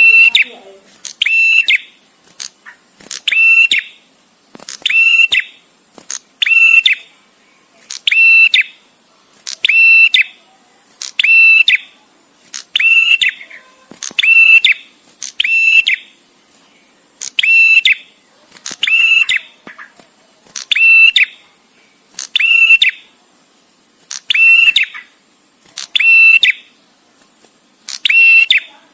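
Male prenjak tamu calling: a short, rapid rattling call with a strong high note, repeated evenly about every one and a half seconds with brief pauses between.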